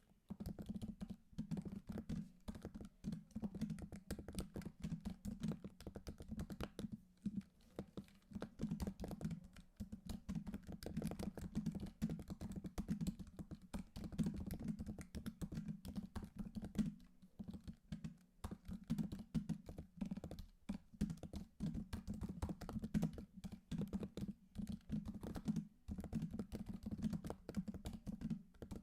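Continuous typing on a computer keyboard: a dense, irregular run of key clicks and clacks, with a few brief pauses.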